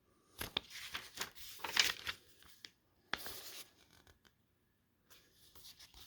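Paper pages of a CD booklet being handled and turned, rustling and crackling in two spells, the second short, with fainter handling near the end.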